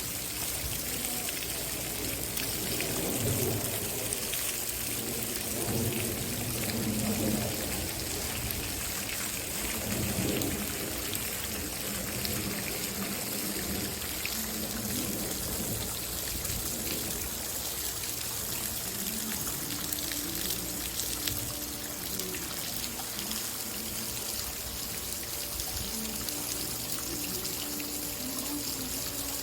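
Running water trickling and pouring steadily.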